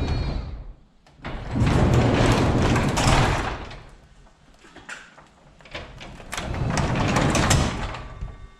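Sectional garage door rolling along its tracks twice, each run lasting about two seconds, as it is tested after its spring has been given more tension.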